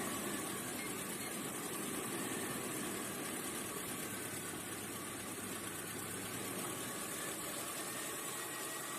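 Car engine idling steadily while it powers a 2200-watt electric kettle through a 12 V to 220 V inverter. It is a steady, even running sound with no change.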